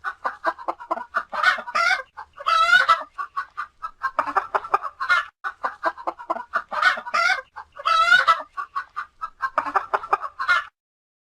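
Hen clucking and cackling: a run of rapid short clucks broken by several longer drawn-out squawks, stopping shortly before the end.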